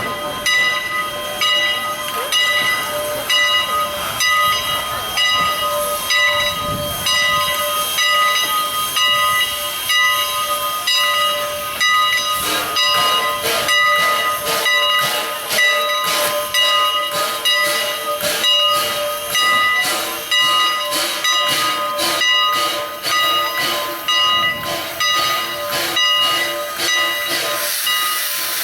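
Steam locomotive Engine 89, a 2-6-0, hissing steam continuously, with several steady ringing tones in the hiss. From about halfway a run of irregular sharp clicks joins in.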